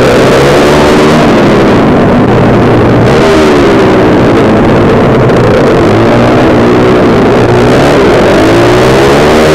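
Small engine run hard on a kart track, heard onboard and very loud, its revs climbing and dropping every couple of seconds as it accelerates out of corners and backs off into them.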